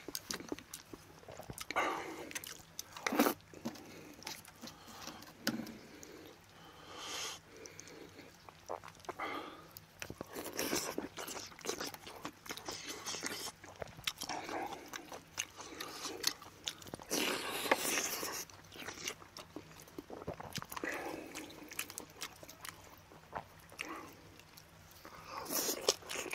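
Close-miked eating sounds: a man chewing and biting into boiled pork and aged kimchi, in irregular bursts.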